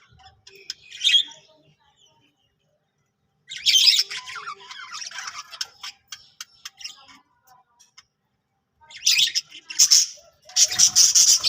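Budgerigars chattering and squawking in three spells: briefly about a second in, again from about three and a half seconds, and once more near the end, with short silences between.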